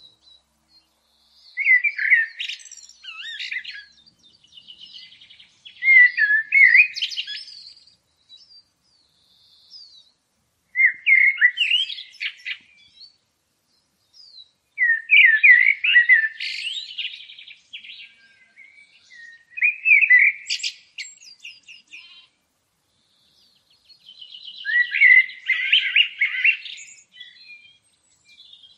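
A songbird singing in phrases of quick chirps and trills, a phrase of a second or two every four to five seconds, with short pauses between.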